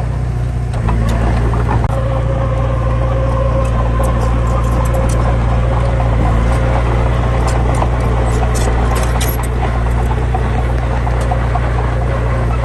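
Heavy diesel engine running steadily, a little louder from about a second in, with scattered light clicks and rattles.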